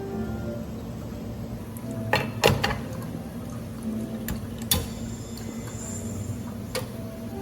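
A few sharp clinks and knocks of glass and dishware, the loudest a cluster about two and a half seconds in, over a steady background with soft held tones.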